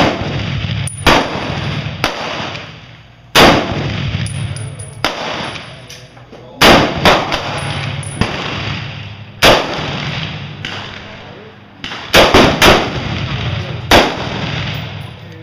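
Rifle gunfire, a dozen or so shots at uneven intervals, a few quick in succession, each very loud crack followed by a long echoing tail, with quieter shots from other shooters in between.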